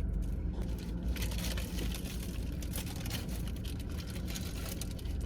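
Someone eating a bagel: a dense run of small crackles and rustles starts about a second in, over a steady low hum.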